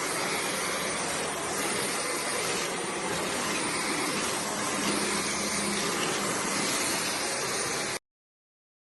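Dyson V12s cordless stick vacuum cleaner running at a steady speed, an even rushing noise with a faint high whine, stopping abruptly near the end.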